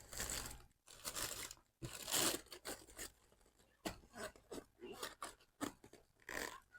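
Rustling, crinkling handling noises close to the microphone: three longer bursts in the first few seconds, then a run of short, quick ones.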